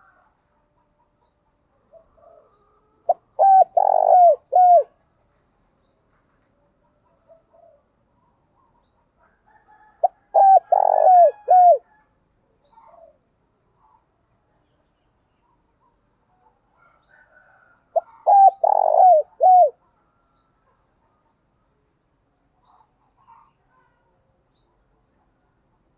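Spotted dove cooing: three calling phrases about seven seconds apart, each a short run of low coos, with faint chirping between them.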